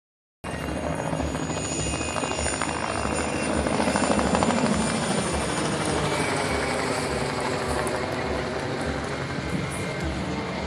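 Helicopter flying aerobatic manoeuvres: a steady rapid thudding of the rotor blades under a high turbine whine, swelling to its loudest about four seconds in and then easing slightly.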